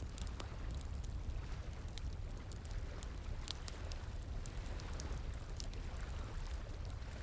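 Wood fire crackling, with scattered sharp pops and snaps, over the steady low rush of flowing water.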